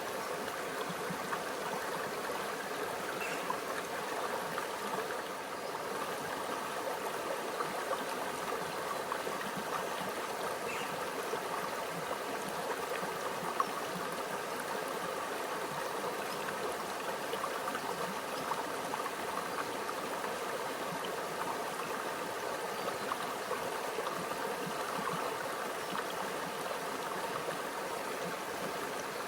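Small stream flowing steadily over rocks, a continuous trickling and gurgling of shallow water.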